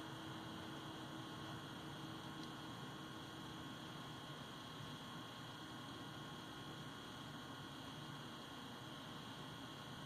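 Faint steady hum and hiss with no distinct events.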